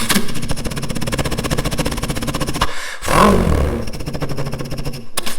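A man's voice imitating a single-cylinder motorcycle engine: a fast, even putter like an idle. About three seconds in it breaks off briefly, then gives a quick rev that rises and falls before settling back into the putter.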